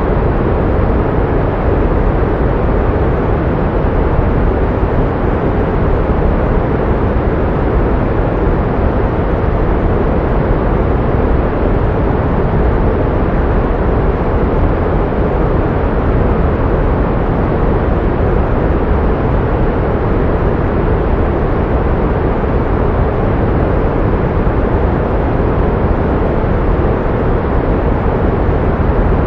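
Pink noise: a steady, even rushing hiss that never changes, heavier in the low end and thinning out toward the highs.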